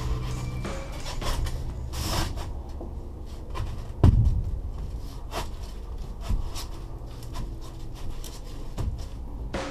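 Rigid foam insulation board rubbing and scraping against the box truck's wall and lip as it is tucked into place, with one sharp knock about four seconds in.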